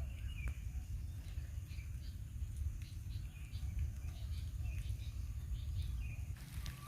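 Small birds chirping in short, high calls over a steady low outdoor rumble.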